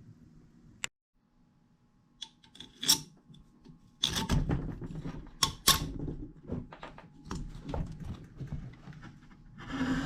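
Irregular clicks, knocks and rattles of parts and tools being handled, a few at first and then a busy clatter from the middle on.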